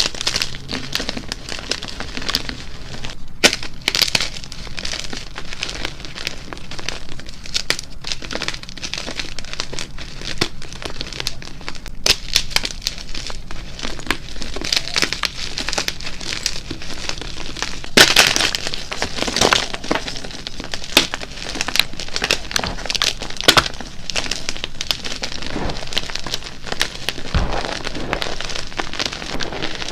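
Blocks of dyed gym chalk being crushed, a dense, steady run of crisp crunching and crackling as the chalk breaks and crumbles, with the sharpest, loudest snap about eighteen seconds in.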